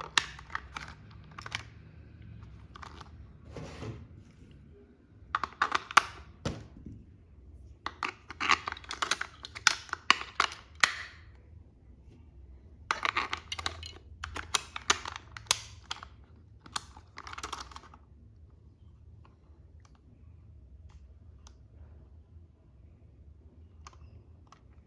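Toy packaging being handled and opened by hand: clusters of clicks, crinkles and taps, busiest in the first eighteen seconds, then only faint handling noise.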